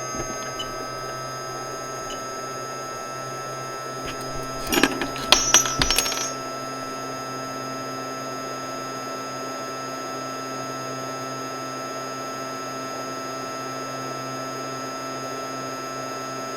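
Steady hum of a workbench air-handling fume extraction system, which the technician calls so loud. About four seconds in comes a short rattle of small metallic clicks and clinks lasting around two seconds.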